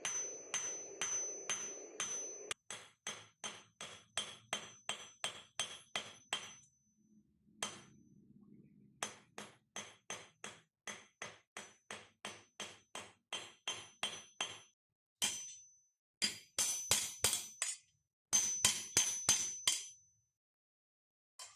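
Hammer blows on a steel anvil, about three a second, each with a high ringing note, while a rivet is peened over to form its head and join the two halves of rebar blacksmith tongs. The blows pause briefly about seven seconds in, then go on in bursts with short gaps near the end.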